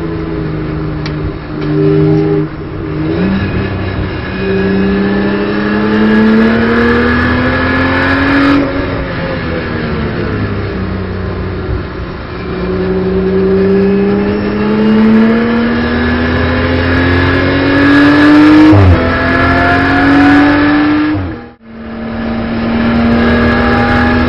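In-car sound of a BMW M240i Racing Cup car's turbocharged straight-six, pulling through the gears under acceleration: the engine note climbs steadily in long stretches and drops back about eight and nineteen seconds in. The sound cuts out briefly near the end, then the engine holds a steady note.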